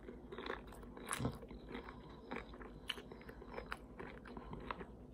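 A person chewing crunchy fried tortilla chips topped with taco meat and cheese, with faint, irregular crunches.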